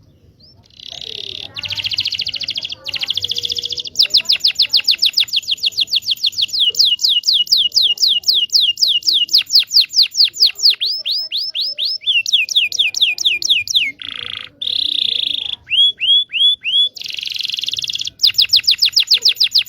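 Canary singing a long, varied song: buzzy rattles, then a long run of quick falling whistled notes at about six a second, then short sets of repeated notes and more buzzy rattles.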